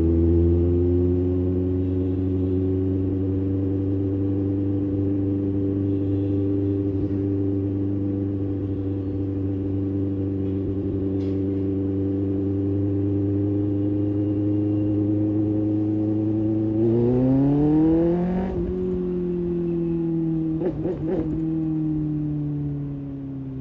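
Kawasaki ZX6R's inline-four engine running at steady revs, then near the end its pitch climbs sharply for a second or so and slowly falls away again.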